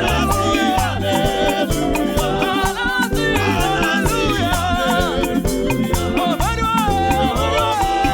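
Live gospel band playing an upbeat praise song, with a repeating bass line, steady percussion and a wavering melody line on top.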